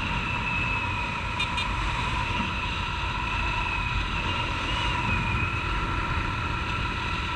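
Honda CG 150 Titan's single-cylinder four-stroke engine running steadily at cruising speed, with a steady whine over wind and road rumble heard from a helmet-mounted camera.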